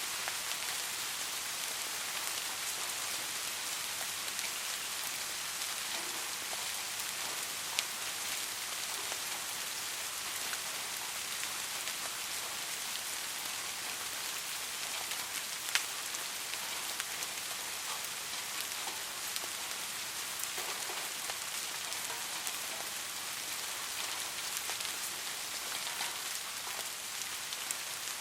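Steady rain falling in an even hiss, with scattered single drops ticking through it and one sharper drop about halfway.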